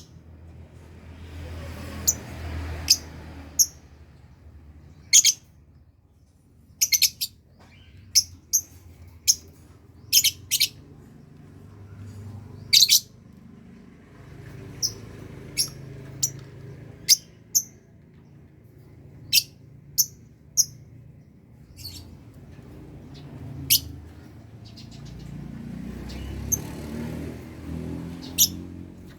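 Lovebirds giving short, sharp, high-pitched chirps at irregular intervals, often two in quick succession, over a low, uneven background rumble.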